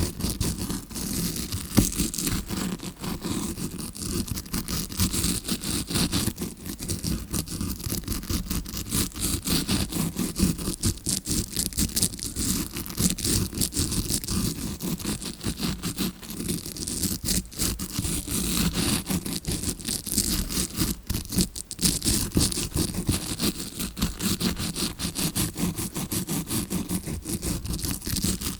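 Tawashi scrubbing brush scratched close against the microphone in quick, continuous short strokes, imitating ear cleaning as heard from inside the ear.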